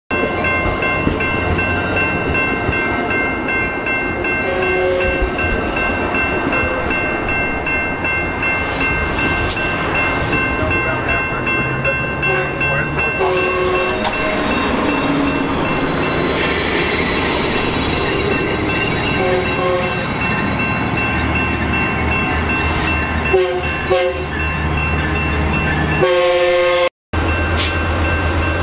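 Passenger trains at a station platform: a diesel locomotive running, with a steady whine of several high tones over a low rumble that grows heavier later on. Short horn blasts sound a few times, the loudest just before the end.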